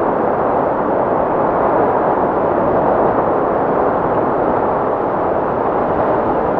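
Wind sound effect: a steady, dense rush of wind noise with no whistling tone, swelling slightly a couple of seconds in.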